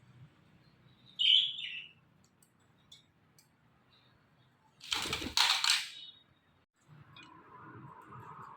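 Indian ringneck parakeet giving a short harsh call about a second in, then a loud noisy rustle lasting about a second around five seconds in.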